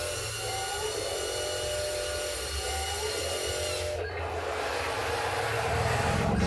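Heavy diesel vehicle engine running, a low rumble under a steady high whine. The whine cuts off about four seconds in, and the rumble grows louder near the end.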